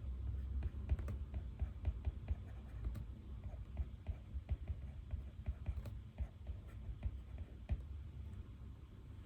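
Pen writing on paper: a steady run of small, irregular scratches and ticks on a desk.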